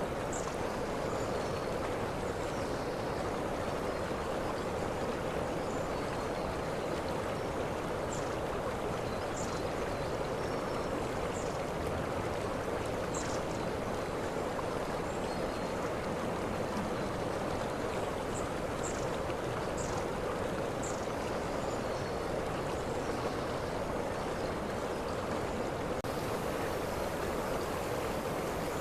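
Waterfall water rushing steadily, with short high chirps now and then.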